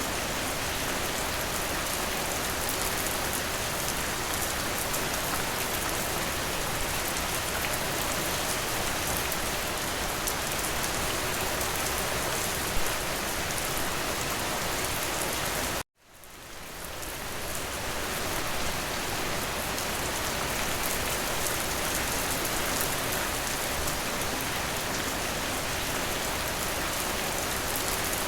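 Steady, dense rain hiss, described as rain hitting a window. About halfway through, the sound cuts out suddenly and fades back in over a couple of seconds.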